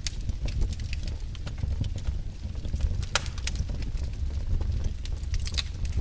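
Wood fire in a fireplace crackling and popping irregularly over a low steady rumble, with one sharper pop about three seconds in.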